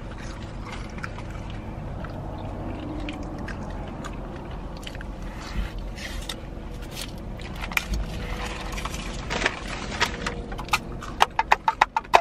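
Close-up eating sounds: chewing and mouth clicks over a steady low hum, with a quick run of sharp smacking clicks near the end.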